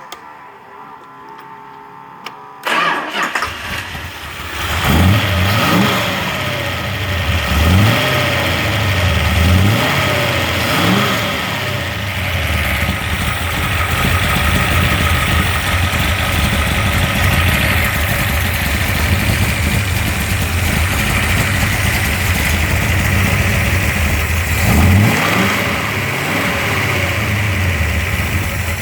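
Dodge 360 V8 stroked to 406 cubic inches, with a freshly broken-in camshaft and Hughes dual valve springs, fires up about three seconds in. It is then blipped up in revs several times, running at idle between the blips.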